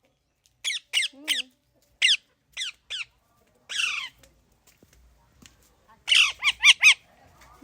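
Pet green parrot squawking: a string of short, sharp, downward-sliding calls, then a rapid run of about five more near the end.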